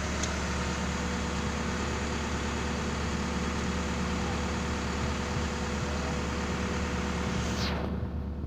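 Backhoe diesel engine running steadily, a constant low hum with a mechanical noise over it. Near the end there is a brief falling whine and the sound thins out.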